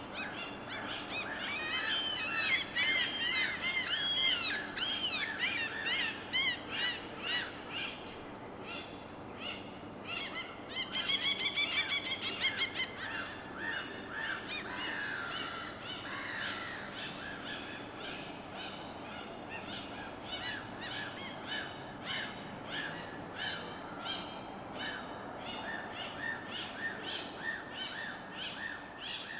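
Birds calling over a steady wash of water. There is a loud cluster of arching calls early, a rapid run of calls about eleven seconds in, then a long series of quicker, evenly repeated calls.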